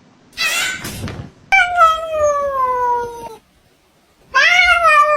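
A cat meowing: a short noisy burst, then two long drawn-out meows, the first sliding down in pitch and the second rising and then falling near the end.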